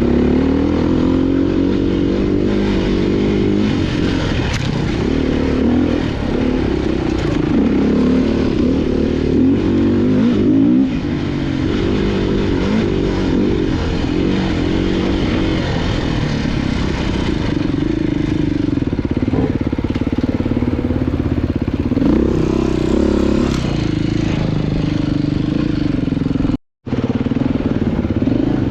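Off-road motorcycle engine running while being ridden on a trail, its pitch rising and falling with the throttle. The sound cuts out for a moment near the end.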